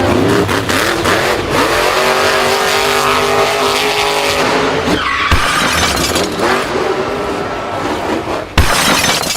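Racing vehicle engines revving up and down with tyres squealing and skidding, and a sharp knock near the end.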